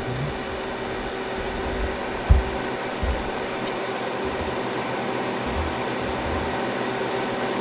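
Steady fan whir with a faint electrical hum from an SRNE 12 V 3 kW low-frequency inverter running under maximum load. A few low bumps and one sharp click about three and a half seconds in.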